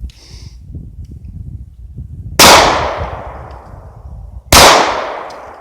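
Taurus PT-111 G2 9mm pistol fired twice, about two seconds apart. Each shot is a sharp crack that rings out and fades over a second or more.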